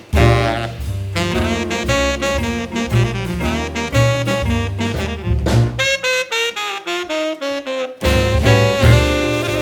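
Jazz music with a saxophone lead over bass and drums. About six seconds in the bass and drums drop out under a descending line of notes, and the full band comes back in about two seconds later.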